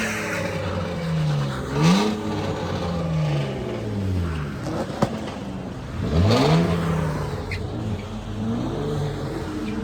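Car engine revving hard again and again as the car is swung in circles, its pitch climbing and dropping in long sweeps several times over. A single sharp snap about five seconds in.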